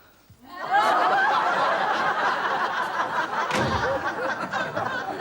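Studio audience laughing. It breaks out about half a second in, after a brief hush, and slowly tails off.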